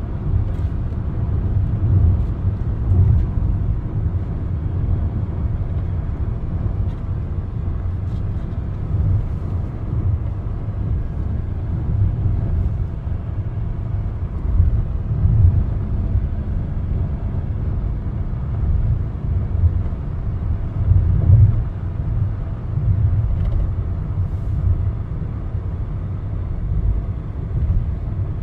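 Steady low rumble of a car on the move, mostly road and engine noise, swelling and easing a little without a break.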